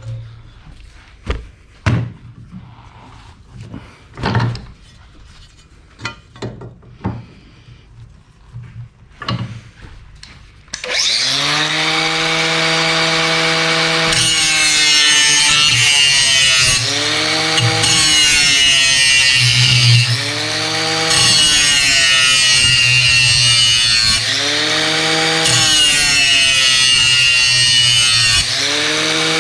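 A few knocks and clicks of the steel blade being handled, then about eleven seconds in an angle grinder starts and grinds the cutting edge of a steel lawn mower blade. Its pitch sags and recovers every few seconds as it is pressed into the steel on each pass along the edge.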